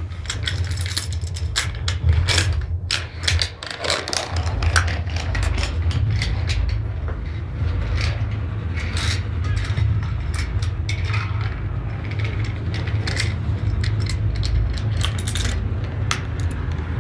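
Toy trains and wooden railway pieces being handled, with a run of small clicks, knocks and clatters over a steady low hum.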